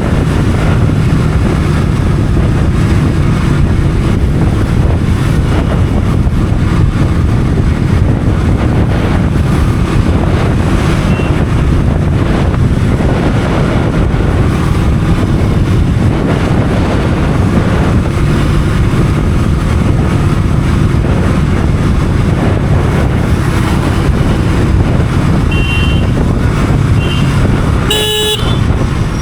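Steady rush of wind and engine noise from a motorcycle on the move. Near the end a vehicle horn honks once, briefly, after a couple of fainter short beeps.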